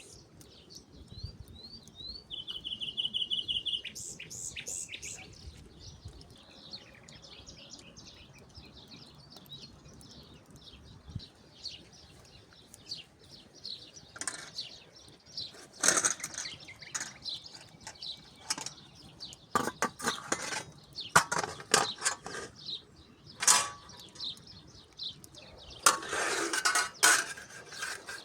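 Bird chirps and a short rapid trill in the first few seconds, then a run of sharp knocks and clatters, coming thicker in the last few seconds.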